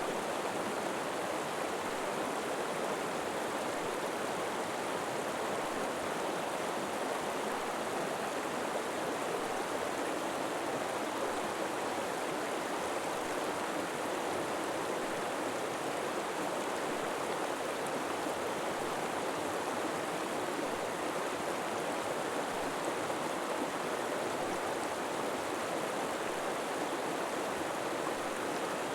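River water flowing steadily, a constant even rush with no distinct splashes or breaks.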